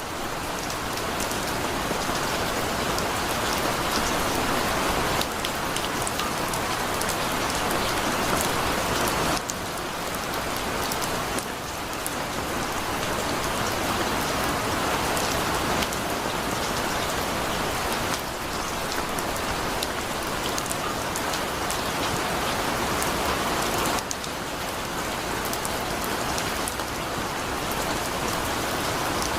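Steady heavy rain pouring and pattering on a surface, with many individual drops ticking, and its level shifting abruptly a few times.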